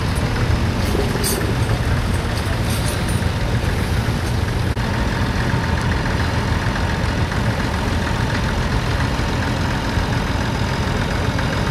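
Vintage tractor engine running steadily, a low even drone, with a few light high clinks in the first three seconds.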